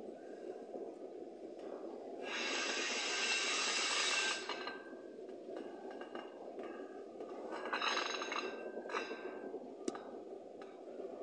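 Freight train wagons rolling slowly past with a steady rumble, joined twice by rasping, hissing swells of wheel-on-rail noise lasting a couple of seconds each. A single sharp click comes near the end.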